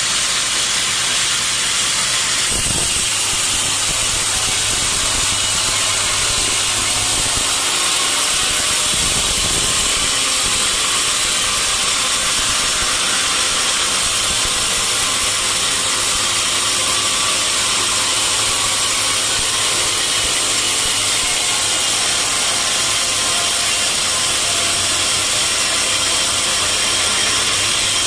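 Sawmill saw running steadily through wood, giving a loud, even hiss-like noise over a low machine hum.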